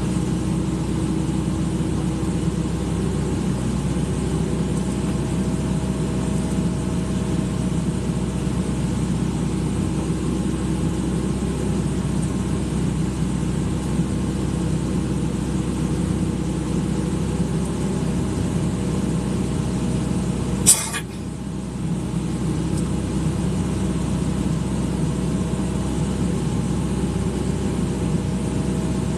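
Excavator's diesel engine running steadily with an even hum. About two-thirds of the way through there is one sharp click, and the engine sound drops briefly for about a second before it resumes.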